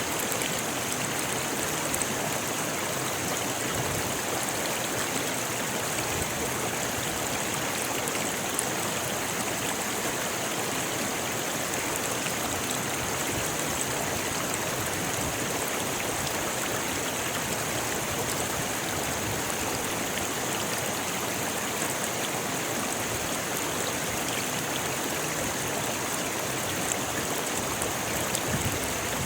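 Rocky river flowing: a steady, unbroken rush of water over stones.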